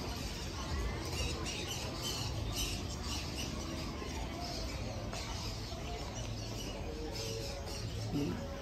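Birds chirping and calling again and again in short notes, over a low steady background rumble.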